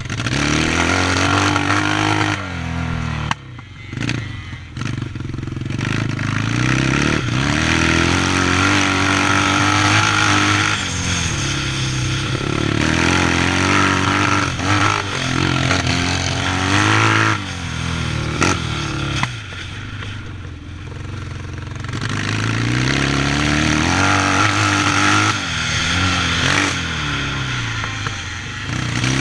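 Yamaha 650 motocross bike's engine revving hard. Its pitch climbs and drops again and again as the throttle opens and shuts, with short throttle-off lulls about four seconds in and again around twenty seconds in.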